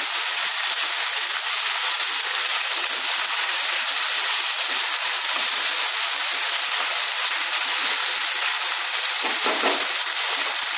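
Diced potatoes sizzling steadily in hot oil in a frying pan as they are stirred with a wooden spatula, being browned before water is added.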